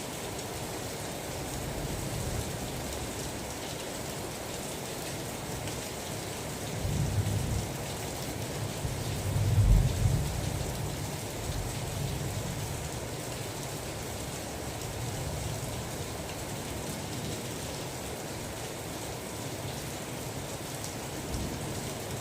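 Steady rain falling, with a low thunder rumble about seven seconds in and a louder, longer rumble around ten seconds in.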